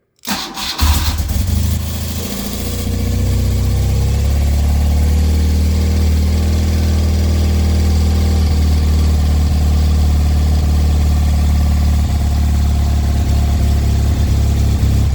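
1975 BMW R90S air-cooled flat-twin engine cold-starting on choke: the starter spins it briefly, it catches within the first second, then runs steadily.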